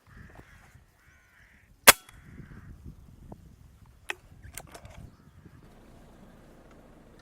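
Crows cawing, then a single sharp crack from a Hatsan Striker Edge break-barrel spring-piston air rifle firing about two seconds in, followed by a few fainter clicks around four to five seconds in.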